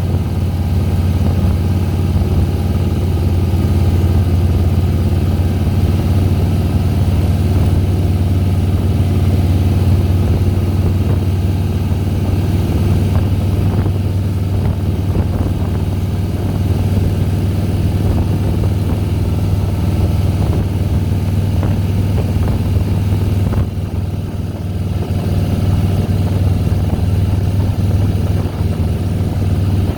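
Harley-Davidson Softail Deluxe's V-twin engine running steadily as the motorcycle climbs, with a short drop in level about three-quarters of the way through.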